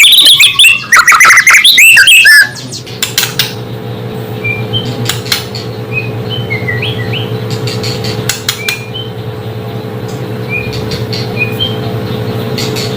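White-rumped shama singing loudly in quick gliding whistled phrases for about two and a half seconds. The song then stops, leaving a steady low hum with scattered short chirps and a few sharp clicks.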